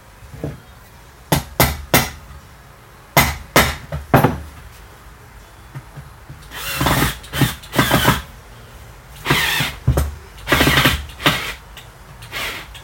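Small screws being worked into new wood: a few sharp knocks, then a run of short bursts of screw-driving noise.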